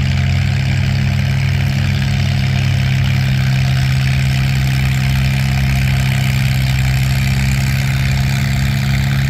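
Antique tractor engine idling steadily, a low even hum that neither rises nor falls.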